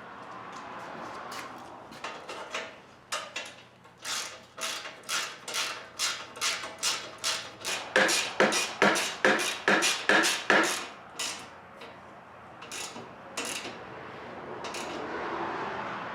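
Hand ratchet wrench worked in quick repeated swings, about two to three strokes a second, loudest and fastest near the middle, then a few last strokes: bolts being run down and tightened.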